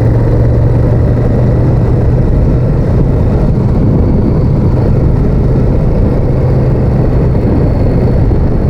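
Honda VTR1000F's 90-degree V-twin engine running steadily under way, a low steady hum with road noise over it.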